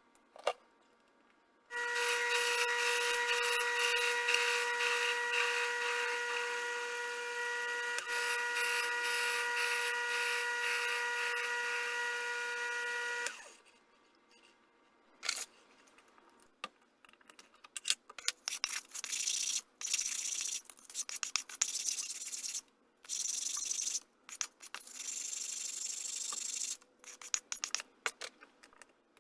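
A workshop machine tool runs with a steady whine for about eleven seconds and then stops. Irregular short bursts of scraping or cutting noise follow, typical of metal being worked by hand or by machine.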